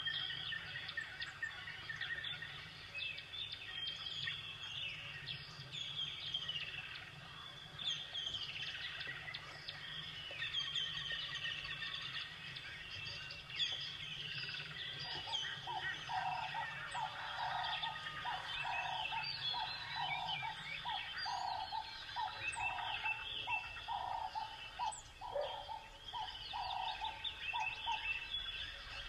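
Birds chirping and calling, with quick high chirps throughout. From about halfway, a lower call repeats steadily for roughly ten seconds.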